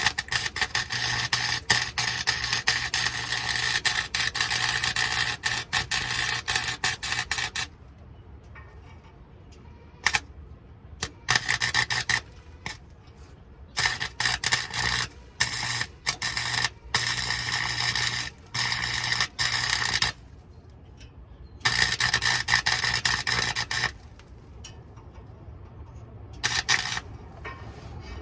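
Welding arc crackling in abrupt stop-start bursts on a truck's exhaust pipe: one long bead of about eight seconds at the start, then about six shorter tacks and beads, with a low electrical hum under each.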